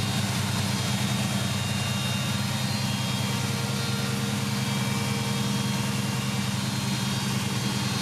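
1967 Chevrolet Nova's engine idling steadily with an even low rumble.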